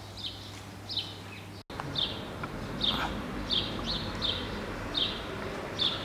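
A small bird chirping: short, high chirps, about one or two a second, over a faint steady outdoor background. The sound drops out for an instant about a second and a half in.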